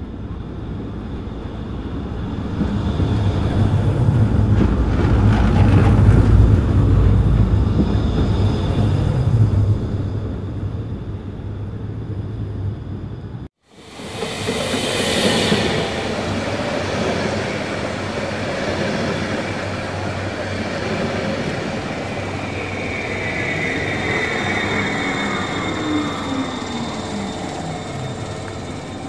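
Passenger train rolling along the rails, heard from aboard a coach: a loud low rumble of wheels and running gear, then, after a break about halfway, a steadier rolling noise with whining wheel squeal sliding down in pitch.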